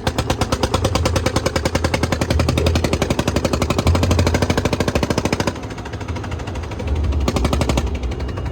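Diesel tractor engine revving with rapid, even exhaust beats over a low rumble, easing back about five and a half seconds in and revved again briefly near the end.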